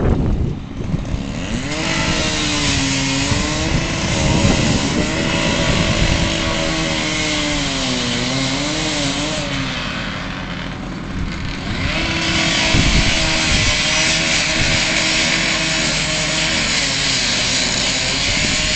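Engine-driven power saw cutting into a burned truck's hood: the motor's pitch dips and rises as the blade loads up, over a steady hiss of cutting. It eases off about ten seconds in and picks back up a couple of seconds later.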